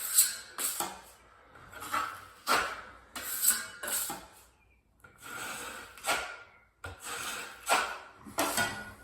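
Wide 14-inch drywall trowel scraping and spreading joint compound over a patched drywall ceiling in a run of separate strokes, about one a second, for the second coat.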